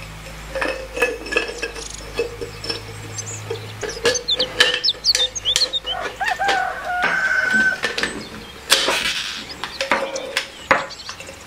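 Chickens clucking and a rooster crowing in the background, with a longer held call about seven seconds in. Over them come sharp clicks and taps of small metal and glass parts being handled.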